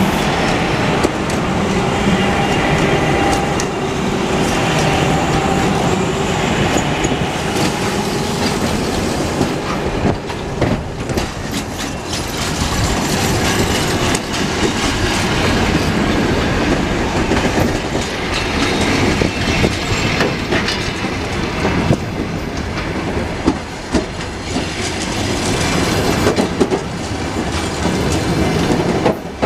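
Passenger train pulling into a station platform: its wheels clack steadily over rail joints and points, with a faint tonal whine in the first several seconds.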